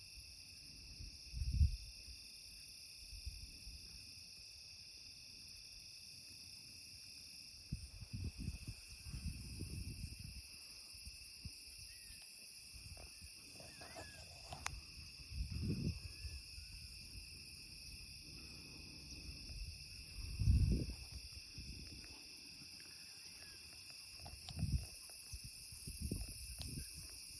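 Crickets chirping in a steady chorus, with wind gusting against the microphone about five times, the strongest gusts near the start and about two-thirds of the way through.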